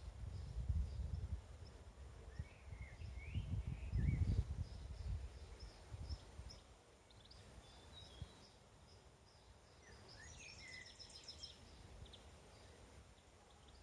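Small birds chirping and calling, with a quick trill about ten seconds in, over low rumbles of wind on the microphone that are strongest in the first few seconds.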